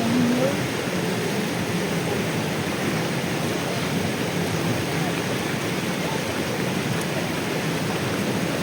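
Steady rushing noise, even and unbroken, with no rhythm or clear pitch.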